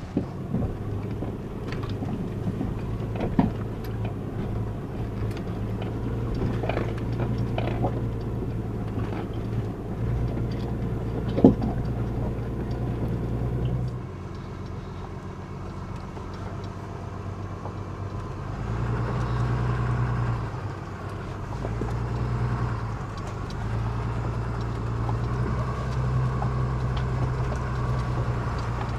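Truck engine running at low speed while driving slowly over a rocky trail, its note swelling and easing several times. A few short knocks and clatters from the rough ground, the sharpest about eleven seconds in.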